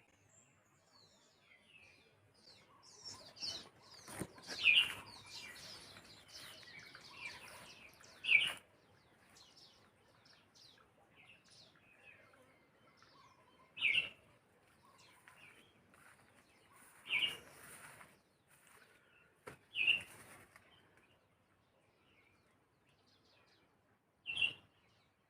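Mauritius grey white-eye (picpic) calling: a stretch of quick twittering chirps a few seconds in, then single short, sharp chirps every few seconds.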